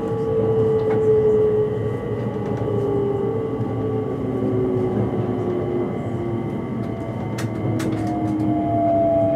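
Cabin running noise of a JR East E257 series electric limited express slowing into a station: a steady rumble under a whine that slowly falls in pitch as the train brakes. A few sharp clicks come near the end.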